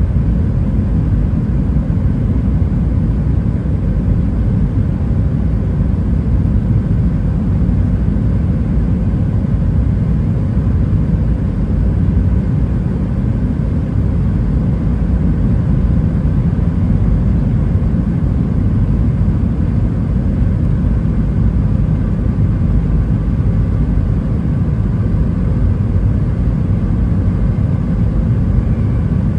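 Steady, loud cabin noise of an Airbus A320-212 airliner: a deep, even rumble of its jet engines and airflow, with a few faint steady tones above it and no change.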